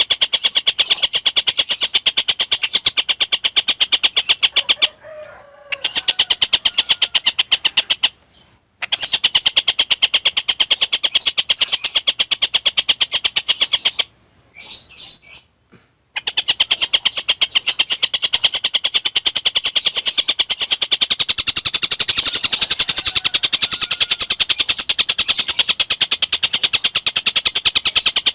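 Tengkek buto kingfisher calling in a fast, continuous chatter of rapidly repeated high notes, broken by a few short pauses about 5, 8 and 14 seconds in.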